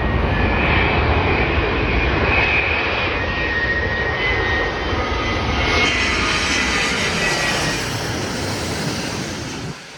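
Boeing 787-9 Dreamliner jet passing close by, its engines running loud with a high fan whine over a broad rush of noise, fading away in the last couple of seconds.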